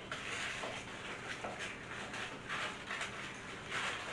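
Thick soy and brown-sugar caramel sauce bubbling and sizzling in a hot pan, a steady hiss with irregular swells, the sauce reduced to a spoon-coating glaze.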